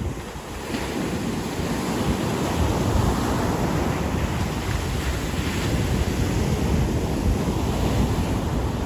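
Ocean surf breaking and washing up a beach, the hiss swelling about a second in and then holding, with wind buffeting the microphone underneath.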